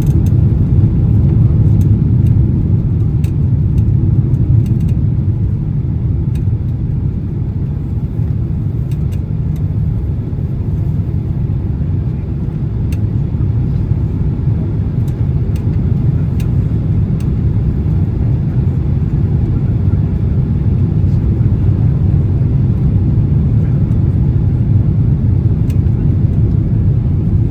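Cabin noise inside a Boeing 767-300 in flight: the steady low rumble of the engines and airflow, with a few faint ticks.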